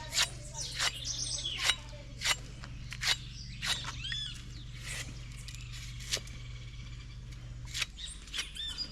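Cutlass chopping into coconut husks, a dozen or so sharp irregular strokes, while small birds chirp a few times.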